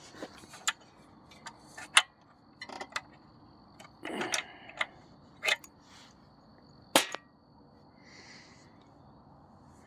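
Irregular metal clicks and knocks from the pin and fittings of a Grasshopper mower's grass-bagger being pulled and handled, with a short scraping rattle about four seconds in. The two loudest knocks come about two seconds and seven seconds in.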